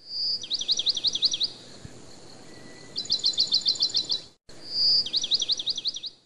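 A songbird singing: a short clear whistle followed by a quick run of sweeping notes, then a faster series of short notes, and the whistle-and-run phrase again near the end.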